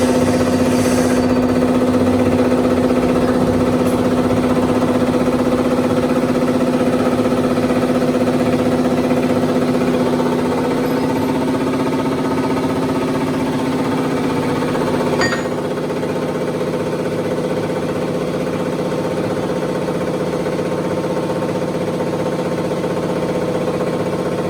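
Tractor diesel engine running steadily at a fixed speed with a hard knock, which the mechanic puts down to worn, knocking cylinder sleeves (liners). A click about fifteen seconds in, after which the engine runs slightly quieter.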